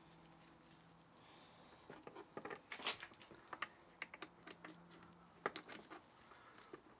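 Faint, irregular light clicks and taps of small metal gearbox parts and hand tools being handled during reassembly, coming in flurries from about two seconds in to about six seconds in, over a low steady hum.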